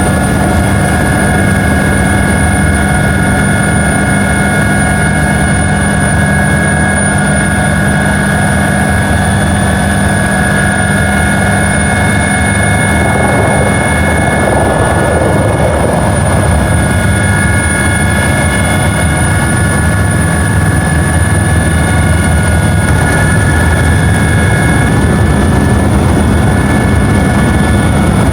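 Helicopter running steadily: a loud, even drone from the engine and rotor, with a high steady whine on top.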